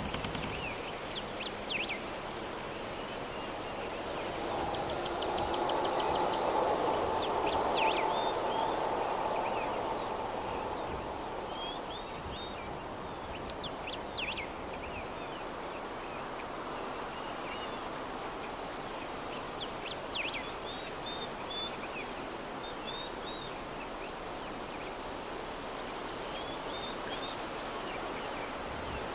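Soft breeze ambience, a steady rush of wind that swells for several seconds a few seconds in, with short bird chirps and quick high calls scattered throughout.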